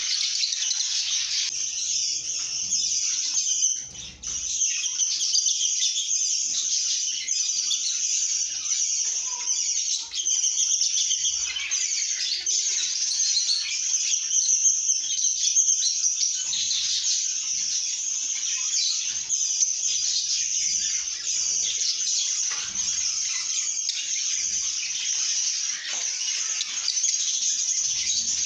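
Lovebirds chirping and chattering continuously in dense, high-pitched, overlapping calls, with a brief lull about four seconds in.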